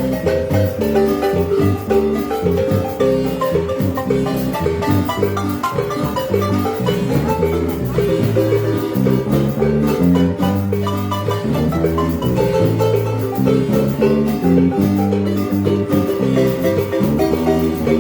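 Marimba ensemble playing a lively dance tune: fast mallet notes over a line of deep bass notes, continuous and steady in loudness.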